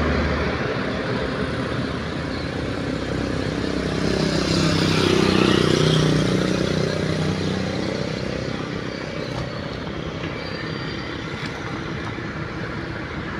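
Road traffic: a motor vehicle's engine passing close by, loudest about five seconds in, its pitch dropping as it moves away, with engine noise of other traffic running on after.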